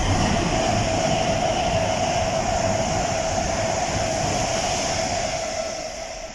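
Train running close past the platform: loud rumble of wheels on rail with a steady high whine, easing off gradually toward the end.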